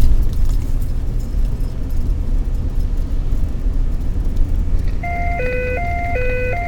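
Steady low rumble of a car driving. About five seconds in, a scanner radio sounds a high-low alternating alert tone, switching pitch a little over twice a second, the signal ahead of a dispatch.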